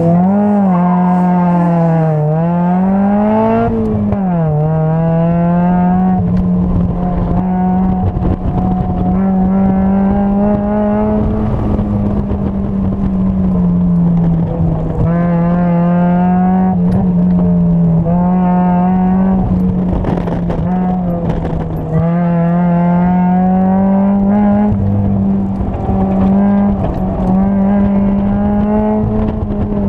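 A first-generation Mazda Miata's engine on an autocross run, heard from inside the open cockpit. The revs swing up and down quickly over the first few seconds, then hold fairly steady, with repeated short rises as the throttle is worked.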